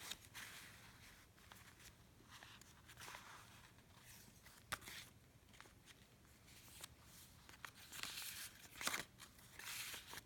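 Soft rustling and crinkling of paper as the pages of a handmade journal are turned and handled, louder toward the end, with a couple of sharp taps.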